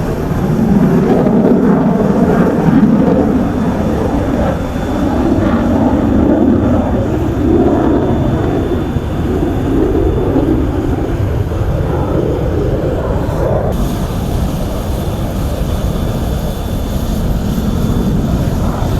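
Jet engine noise from Su-30SM fighters, a loud continuous rumble that swells and fades, its higher hiss falling away about 14 seconds in.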